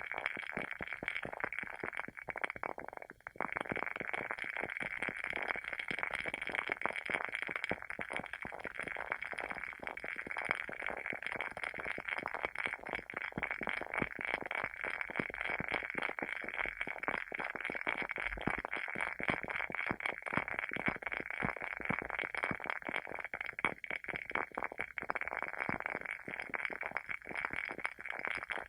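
WoodWick candle's wooden wick burning with a dense, continuous crackle like a small fire, with a brief lull about three seconds in.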